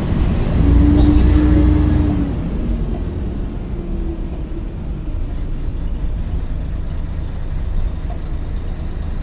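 Scania L113CRL bus's diesel engine running. It is louder for a second or two just after the start, with a whine over it, then settles into steady running.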